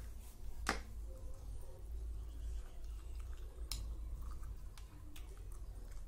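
Close-up eating sounds: a mouthful of chicken curry and rice being chewed, with two sharp wet mouth clicks about three seconds apart and a few softer smacks and squishes, over a low steady hum.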